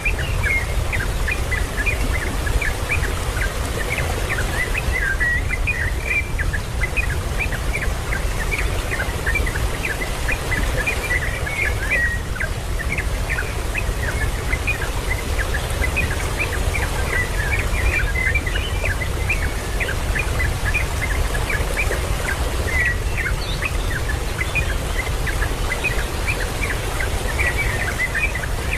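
Many small birds chirping at once, a constant chatter of short, high chirps over a steady low rumble.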